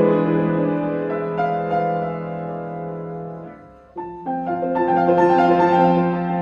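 Classical piano music: a melodic phrase fades out, there is a brief pause about four seconds in, and a new phrase begins. The pause is the breath between the melody's phrases.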